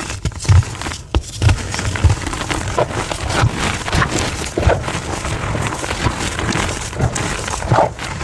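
Blocks of gym chalk being crushed and crumbled, a dense run of crunching and crackling with a few heavier crunches, played back at double speed.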